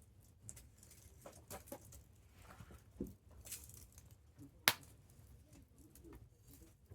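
Wood campfire burning, with scattered small crackles and one sharp, loud pop about two-thirds of the way through.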